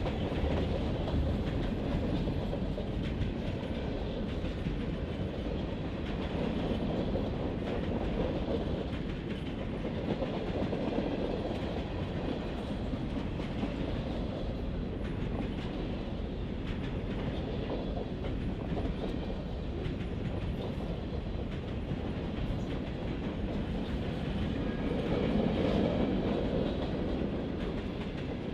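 Marquette Rail freight train rolling past, its cars' wheels clacking over the rail joints in a steady rumble that swells and eases every few seconds, loudest near the end.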